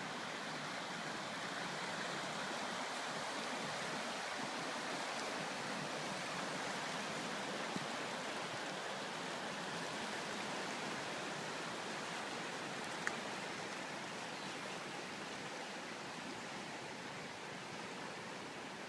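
Flooded creek rushing steadily, an even wash of water noise that eases slightly in the last few seconds. There is a small click about eight seconds in and another about thirteen seconds in.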